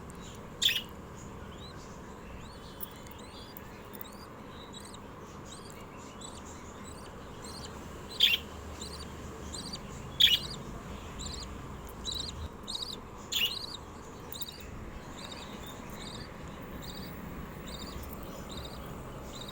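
Pet lovebirds chirping: a few loud, sharp calls over a steady run of soft, high, repeated cheeps.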